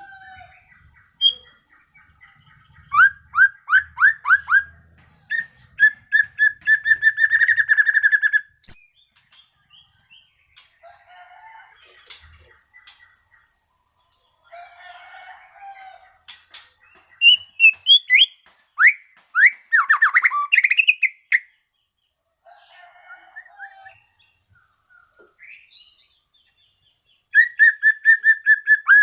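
White-rumped shama (murai batu medan) singing: several loud phrases of fast repeated notes, with quieter scattered notes and short pauses between them.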